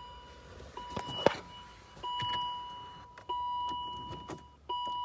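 2008 Volvo XC70's warning chime sounding over and over, a steady electronic tone that repeats about every second and a quarter, with a sharp click about a second in.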